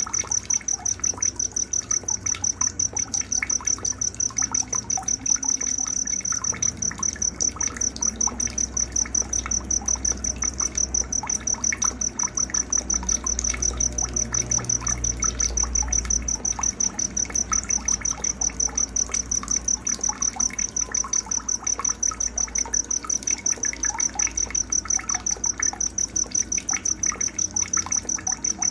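Night nature ambience: a cricket chirping in a steady high trill of rapid, even pulses, with scattered short bird chirps and trickling water beneath.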